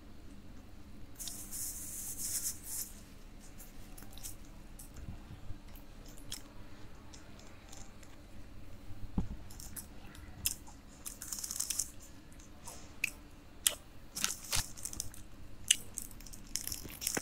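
A man chewing food close to a clip-on microphone, with crunches and wet mouth clicks, and drinking milk straight from the carton midway. Several short rustling hisses and sharp clicks come through, most of them in the second half.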